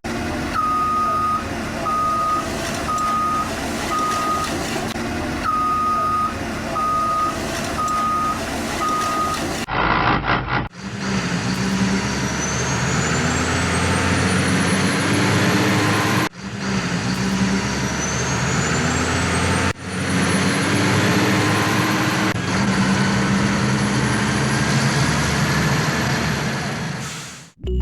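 Truck reversing alarm beeping about once a second, pausing briefly midway. Then a truck engine accelerating, its pitch climbing again and again as if through gear changes, broken by several abrupt cuts.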